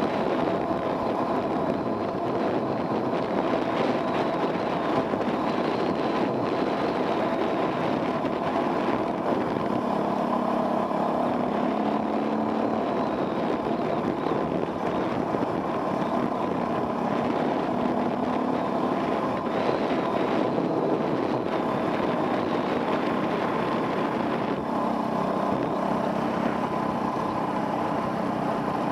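Off-road enduro motorcycle engine running steadily under riding load, its pitch rising and falling a little with the throttle, heard from the rider's helmet.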